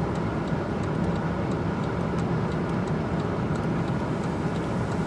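Steady low rumble of a vehicle heard from inside its cabin, with faint regular ticking over it.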